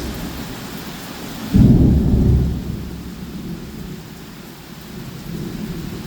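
Heavy rain pouring down steadily, with a sudden loud low rumble of thunder about one and a half seconds in that dies away over a second or so.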